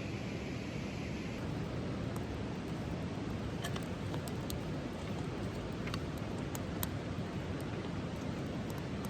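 Wood campfire crackling: scattered sharp pops over a steady rushing background.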